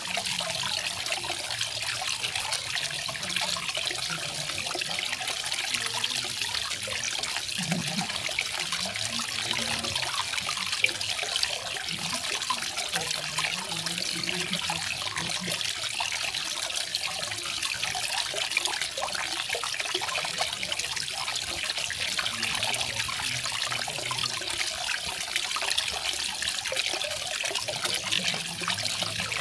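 Small garden waterfall: water splashing and trickling down, a steady, even rush with no let-up.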